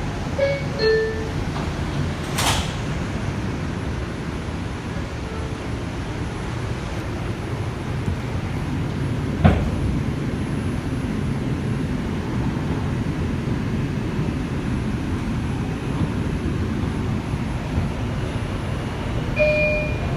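R142 subway car's two-note descending door chime, then the doors shut with a thud about two and a half seconds in. The train pulls out and runs with a steady low rumble from its motors and wheels, with one sharp knock about nine and a half seconds in. A short tone sounds again near the end.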